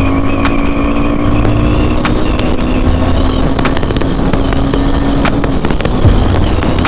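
KTM Duke 390 motorcycle engine running at a steady speed on the move, with a steady low engine tone that fades about five seconds in. Heavy wind noise and scattered sharp pops or buffets on the helmet-mounted microphone.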